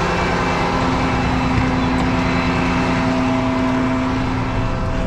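Truck engine running steadily, heard from inside the cab, with a constant low hum and several steady tones.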